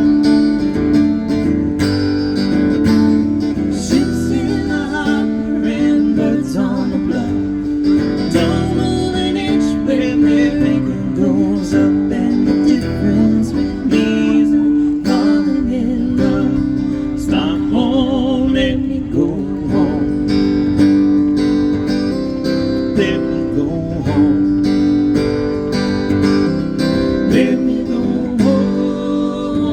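Live band playing an instrumental passage: strummed acoustic guitar with sustained chords, and a lead line wavering in pitch over it.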